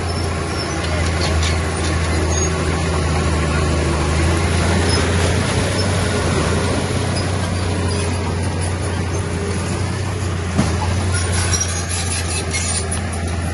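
Komatsu bulldozer's diesel engine running at a steady low drone, with scattered light metallic clicks and squeaks.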